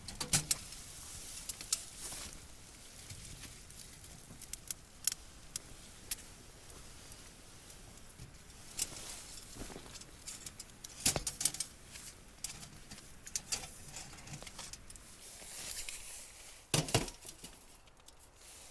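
Scattered clicks, taps and rattles of small objects being handled, over a faint steady hiss.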